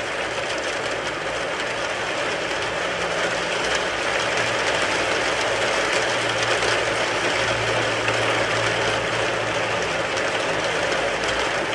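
Rain falling on a car, a dense steady patter of drops, with a low steady hum beneath it.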